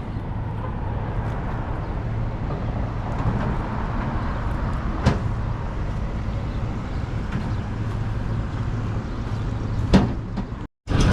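A vehicle engine idling steadily, with two sharp knocks, about five and ten seconds in.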